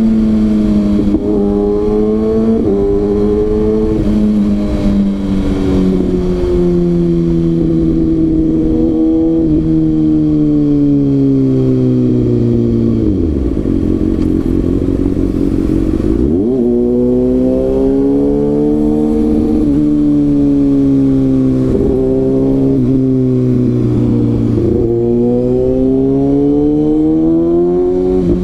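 Kawasaki ZX-6R inline-four engine under way: the revs climb and drop back in steps as the gears change. Around the middle the revs sink low and then climb again as the bike pulls away.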